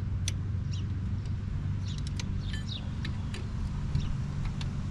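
Steady low droning hum, with scattered light clicks and taps over it.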